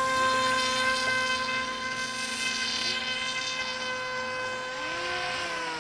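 Electric motor drive of a scratch-built RC Dornier Wal flying-boat model running with a steady whine as it taxis on the water, the pitch easing down slightly near the end as the throttle comes back.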